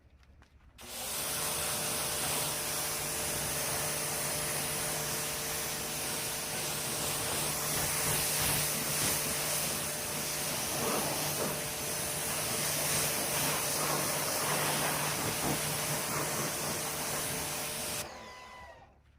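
An electric fan-driven machine, such as a vacuum or blower used for detailing, blowing or drawing air with a steady rushing hiss and a steady motor hum. It switches on about a second in and is switched off near the end, its pitch falling as it winds down.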